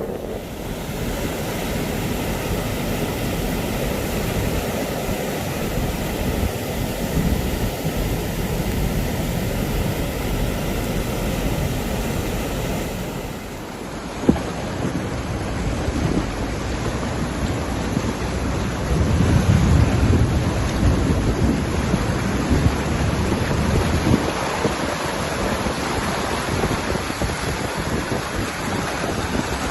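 Rainstorm: steady noise of heavy rain with wind buffeting the microphone. A deeper rumble swells for a few seconds about twenty seconds in.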